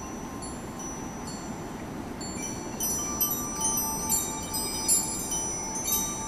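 Wind chimes ringing in the wind, many overlapping tones, sparse at first and much busier from about halfway through, over a low rush of wind.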